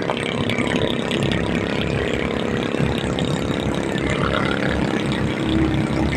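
Vehicle running on the road: a steady engine and road noise rumble.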